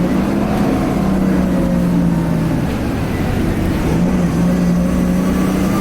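Interior sound of a 2010 Nova Bus LFS Articulated under way: its Cummins ISL diesel engine runs with a steady low drone. A fainter high whine rides above it, the turbo whine this bus is known for. The low engine tone drops away about halfway through and returns about a second later.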